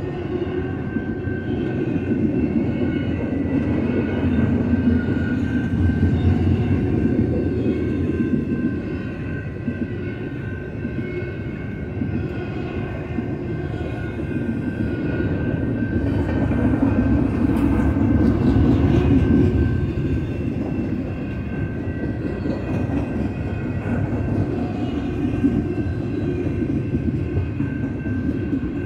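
Loaded double-stack container cars of a BNSF freight train rolling past, a continuous rumble and clatter of steel wheels on rail. It swells twice, about four seconds in and again around seventeen to twenty seconds, with a faint steady high ringing above it.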